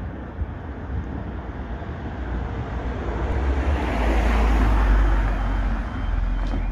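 A road vehicle passing over the level crossing, its tyre and engine noise swelling to loudest about two-thirds of the way in and then easing, with low wind rumble on the microphone. Near the end, a repeating electronic warning tone starts up, typical of the level crossing's alarm beginning to sound.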